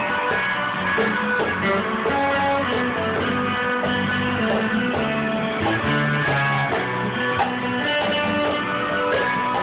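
Guitar playing chords, strummed and picked, with held notes ringing on; no singing.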